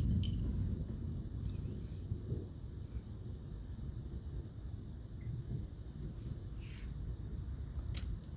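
A night insect chorus trilling steadily at a high pitch. Under it, a low thunder rumble dies away in the first second, leaving a faint low rumble.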